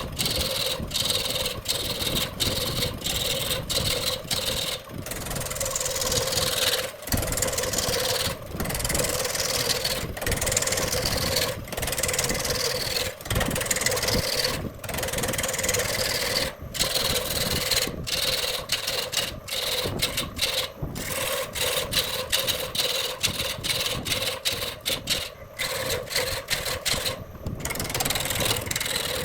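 Wood lathe running with a turning tool cutting into the spinning wood: a steady motor hum under a continuous scraping noise, with a few falling whines in the middle stretch and many brief drop-outs throughout.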